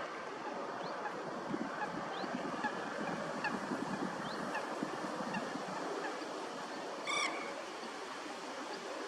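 Waterfowl wetland ambience: a steady background hiss with faint scattered bird chirps, and a single loud honking call from a water bird about seven seconds in.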